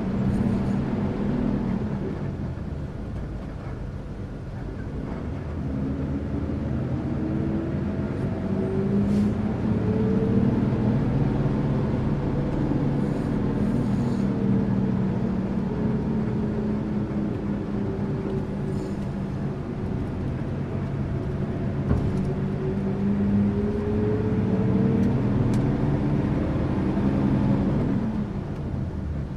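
Tourist bus engine running steadily, its note rising and falling as the revs change.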